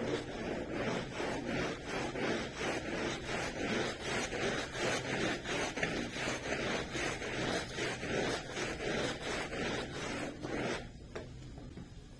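A hand tool rubbing back and forth over the pile of an oil-soaked carpet in quick, even strokes, about three a second, stopping near the end.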